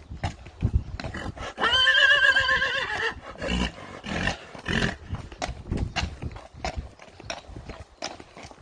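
A horse whinnies once, a wavering call of about a second and a half, over the clip-clop of hooves.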